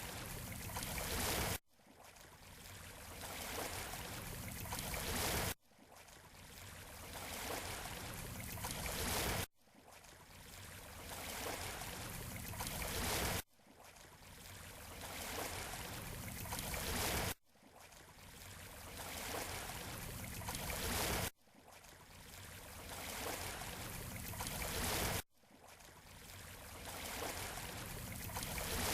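Surf washing up on a beach shore: each wave swells over about four seconds and then cuts off abruptly, the same short wave clip repeating at an even pace, about seven times.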